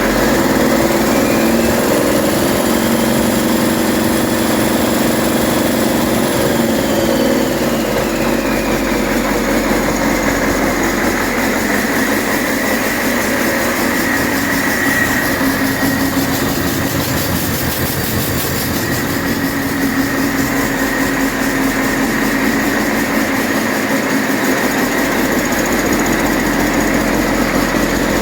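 2008 Cummins ISX inline-six diesel engine with DPF running steadily on a test run. A faint high whine rises and falls over the first several seconds.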